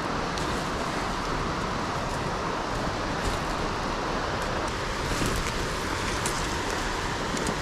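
Steady rushing hiss of water, with a few faint ticks scattered through it.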